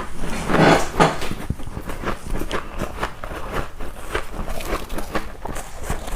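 Ice being crunched between the teeth: a steady run of irregular crisp crunches, with the loudest bites about a second in.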